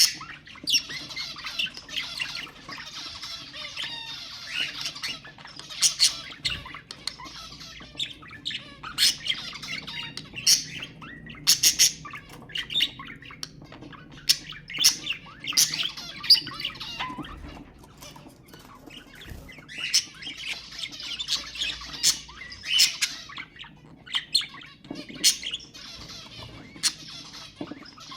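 Budgerigars chattering and warbling, with frequent sharp squawks and chirps; the chatter thickens into dense warbling in a couple of stretches.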